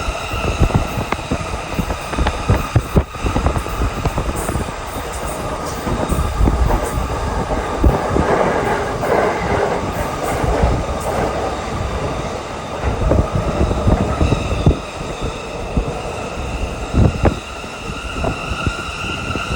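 Shinkansen bullet train running: a low rumble with a steady high whine, and a few sharp knocks along the way.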